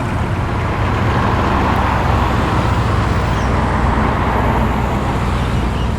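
Car engine running steadily at low speed, a deep rumble with no rise or fall, as a car rolls in at walking pace.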